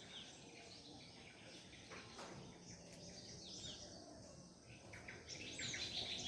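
Several birds singing together in a dawn chorus: scattered chirps and short whistled notes, growing busier and louder near the end.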